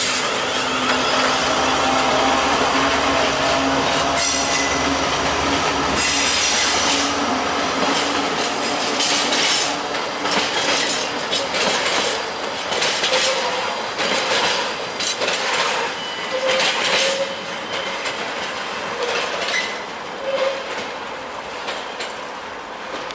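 A train running past: a steady rumble with a low engine hum for the first several seconds, then wheels clattering over rail joints with brief squeals, fading as it moves away.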